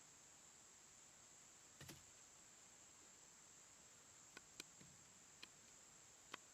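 Near silence with a steady faint high hiss and a handful of isolated faint sharp clicks, the loudest near the end.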